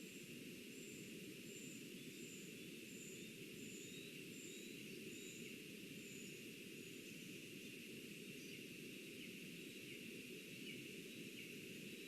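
Faint forest ambience with a steady hiss. Over it a small bird repeats a thin, very high note, a little under twice a second, for about the first six seconds.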